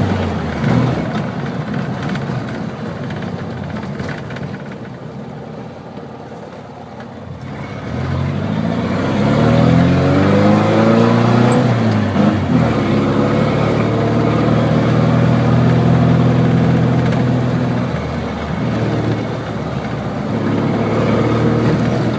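Air-cooled VW Beetle flat-four running through an unmuffled 4-into-1 straight exhaust. It is loud, eases off for a few seconds, then revs up with rising pitch, dips briefly and holds a steady loud note, easing and picking up again near the end.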